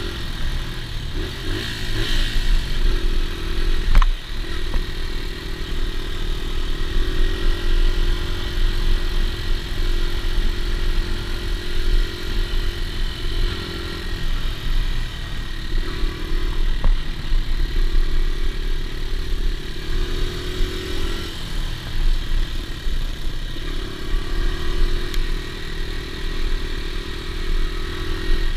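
Dirt bike engine running while being ridden, its note rising and falling in steps as the throttle opens and closes, with one sharp knock about four seconds in.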